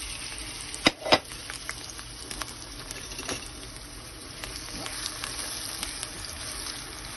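Chopped onion sizzling as it fries in hot oil in a wok, with a steady crackle and small scattered pops while a silicone spatula stirs it. Two sharp knocks come about a second in.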